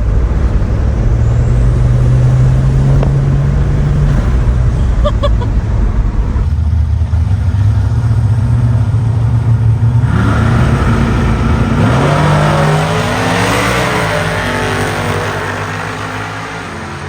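GMC Syclone's turbocharged 4.3-litre V6 running hard, its pitch rising as it revs up about ten seconds in, then fading away.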